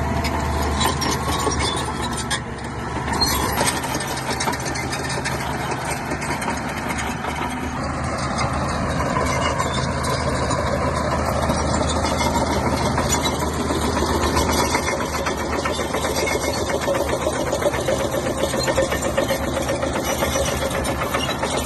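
Shantui bulldozer's diesel engine running steadily under load, with a constant fine clatter over it.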